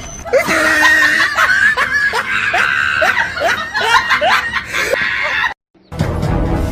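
Someone laughing in a quick run of short giggles, then cut off abruptly; music starts just before the end.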